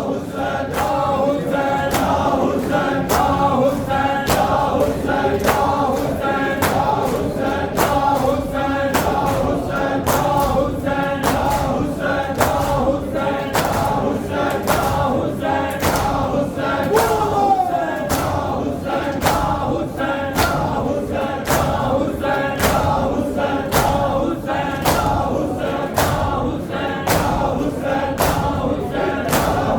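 A chorus of mourners chants a Muharram nauha (lament) in unison. A steady beat of sharp hits runs underneath, keeping time with the chant.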